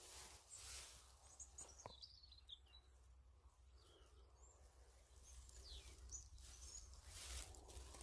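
Faint bird chirps: a few short calls about two seconds in and again around six seconds, over a low rumble and soft rustling of undergrowth.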